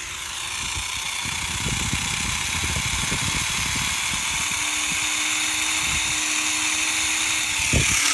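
Tiny electric motor of an Air Hogs E-Charger micro plane spinning its propeller with a steady high whine that grows slightly louder, over an irregular low rumble, with a short thump near the end.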